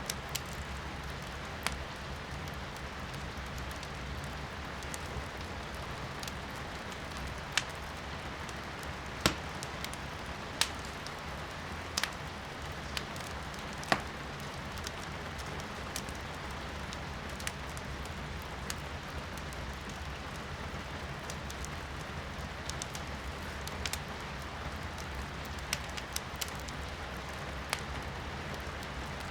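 Wood fire crackling in a fireplace, with sharp irregular pops from the burning firewood over steady rain heard from inside the room.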